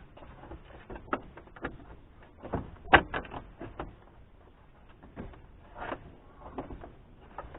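Scattered clicks and knocks of plastic interior trim and its fasteners being handled and worked loose inside a Suzuki Kei's cabin, with one sharp knock about three seconds in.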